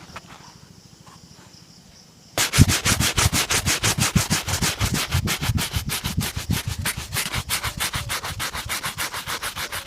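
Shoe being buffed in rapid back-and-forth strokes, about six a second, starting suddenly a couple of seconds in after a quiet start.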